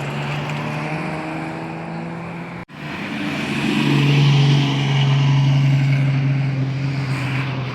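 Car engine held at steady high revs, a droning tone that cuts out briefly about two and a half seconds in, then swells louder and slowly fades.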